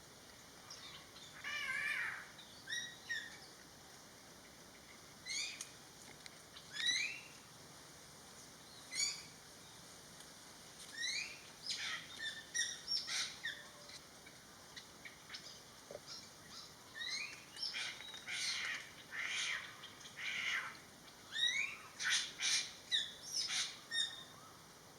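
Greater racket-tailed drongo calling: a varied string of short, sharp calls, many of them quick rising whistles. They come singly at first and then crowd together in quick runs through the last third.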